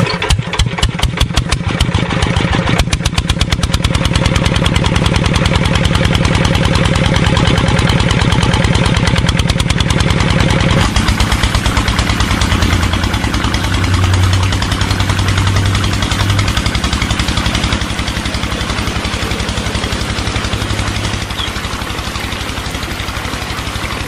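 Small engine of a miniature model tractor running with a rapid, even beat, changing tone about eleven seconds in.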